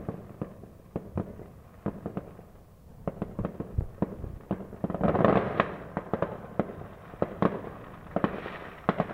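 Fireworks going off: a steady run of sharp, irregular bangs, with a dense crackling flurry about halfway through and another near the end.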